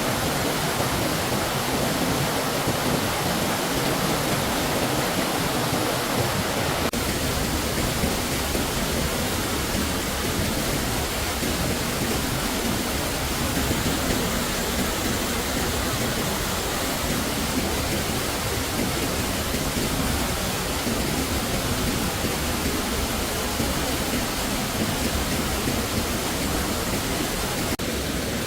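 Stream water rushing steadily, an even unbroken wash of noise, with a slight shift in tone about seven seconds in.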